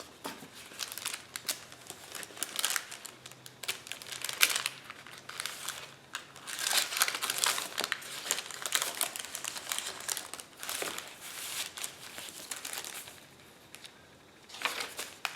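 Paper rustling and crinkling as the pages and tucked-in paper pieces of a handmade paper journal are handled and turned. It comes in uneven spells, busiest in the middle.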